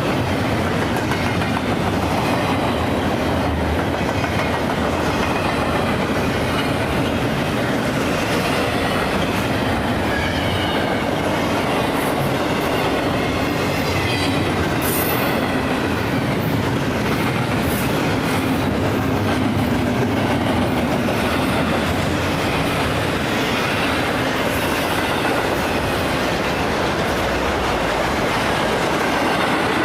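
A train rolling steadily past at close range, its wheels clacking over the rail joints, with brief high wheel squeals in the middle.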